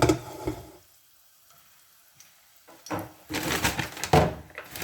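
Garlic cloves frying in hot oil in a pan, sizzling. There is a brief louder burst at the start, then a quiet stretch, and the sizzle builds up strongly over the last second and a half.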